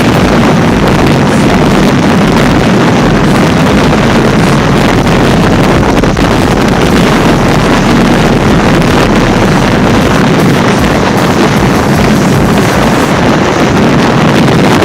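Loud, steady wind buffeting the microphone, mixed with the rush of water, aboard a small sailboat under way.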